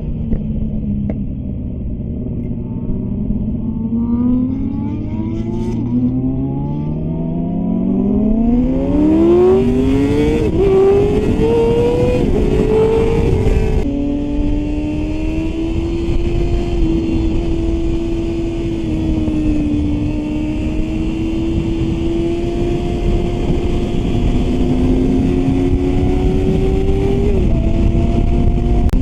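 Sportbike engine, most likely the rider's Yamaha R6 inline-four, pulling hard with its pitch climbing for about ten seconds, with short dips at upshifts. About fourteen seconds in the sound changes abruptly and the engine holds a steady cruising note under wind rush.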